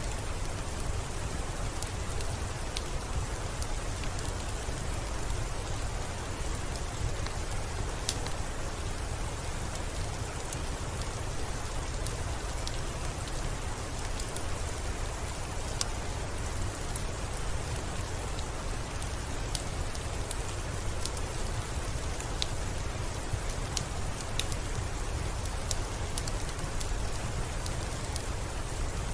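Steady rain falling, with a low rumble underneath and scattered sharp crackles and pops from a wood fire.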